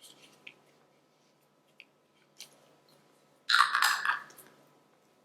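Small clicks and taps of the filler and its container being handled, then a louder crackly rustle for about a second, three and a half seconds in.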